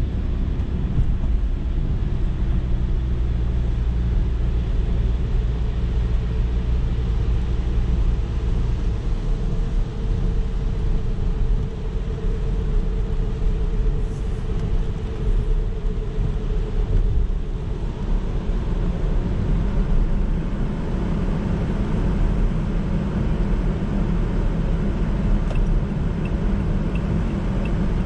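Car driving on a road, heard from inside: a steady low rumble of engine and tyres, with the engine note shifting about two-thirds of the way through. A faint light ticking about twice a second comes near the end.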